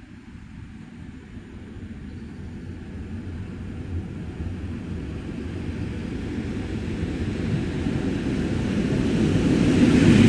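EP08 electric locomotive hauling an intercity passenger train on its approach into the station, a rumble that grows steadily louder as it nears and reaches the platform edge near the end.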